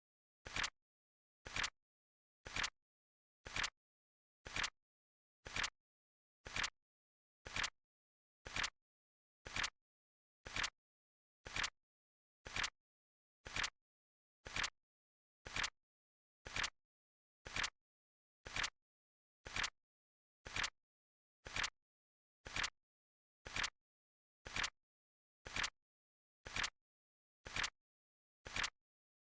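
Flip clock sound effect: a short, sharp flip-click repeating evenly about once a second as the timer's digits turn over.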